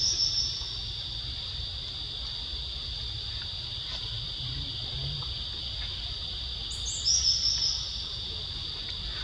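Steady high-pitched drone of insects, with a short high call that slides down in pitch about seven seconds in.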